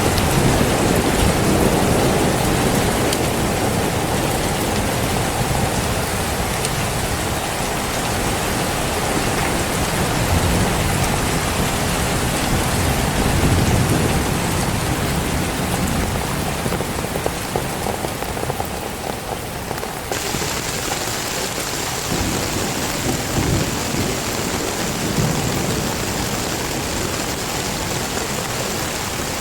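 Heavy rain pouring steadily, with low rumbles of thunder swelling and fading several times. About two-thirds of the way through, the hiss of the rain changes character abruptly.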